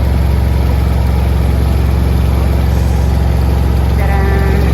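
Combine harvester engine running steadily with a loud, even low hum.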